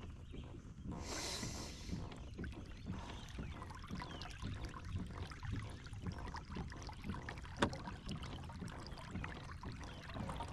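Water moving against a kayak's hull, with small knocks and clicks of gear on the boat and a brief rushing hiss about a second in.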